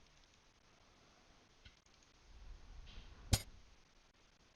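Faint room tone, then a single sharp click about three seconds in: the piece-move sound of an online chess board as a move is played.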